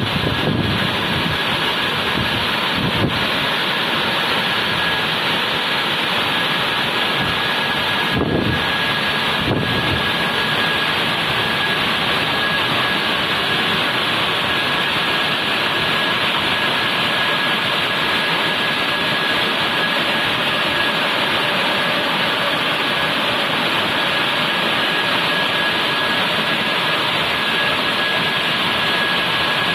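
Automatic car wash machine running under test: a steady rushing machine noise with a thin, high whine held throughout and a few brief low swells in the first ten seconds.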